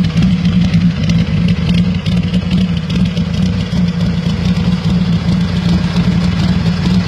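Custom motorcycle engine idling steadily with a low, even rumble.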